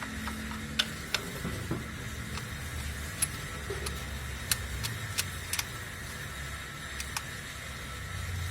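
Scattered sharp metallic clicks and clinks, like hand tools being handled, over a steady low hum with a faint high whine.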